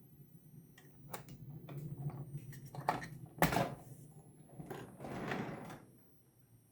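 Model railway layout being started: a low hum with scattered clicks, a sharp knock about three and a half seconds in, and a short hiss near the end.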